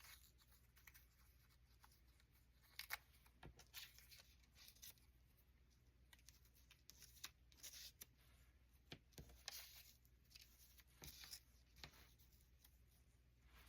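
Faint, scattered rustles and small taps of paper and cardstock being handled, over a low steady room hum.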